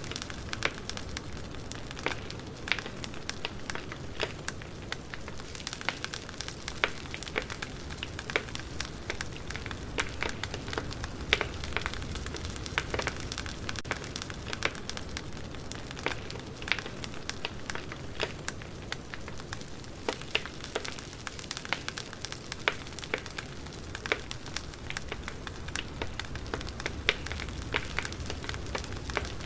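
Campfire crackling, with many small irregular snaps and pops over a steady low rumble.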